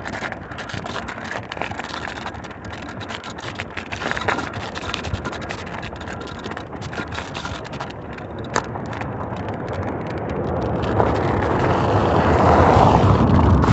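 Outdoor road noise while riding a bicycle: wind rushing and crackling on the microphone, swelling louder over the last few seconds.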